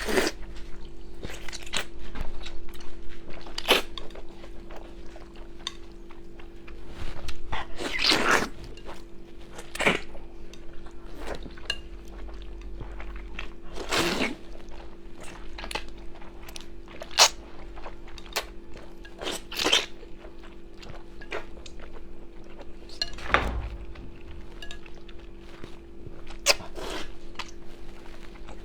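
Close-up eating sounds: chewing on rice noodles and eggs, with scattered clicks of utensils against a bowl, over a steady low hum.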